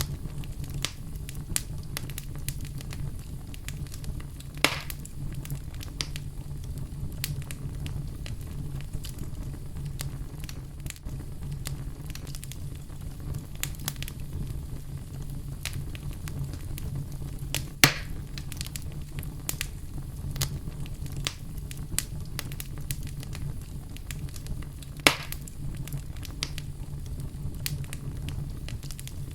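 Wood fire burning in a fireplace: a steady low rumble of flames with constant small crackles and three louder pops, the sharpest near the middle.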